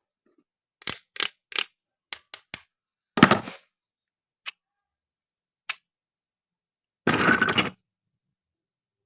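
Plastic and wooden toy fruit being cut and handled: a string of short, sharp clicks and knocks, with two longer crackling, scraping bursts, one about three seconds in and one near the end.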